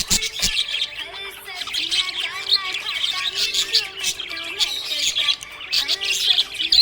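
A group of budgerigars chirping and warbling continuously in a dense, overlapping chatter, with a couple of sharp clicks just after the start.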